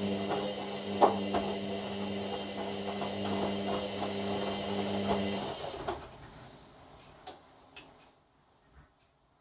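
Hoover washer dryer drum tumbling the load: a steady motor hum with irregular knocks from the load. The motor stops about five and a half seconds in and the drum winds down, then two sharp clicks, typical of the pause between tumbles while the machine weighs the load.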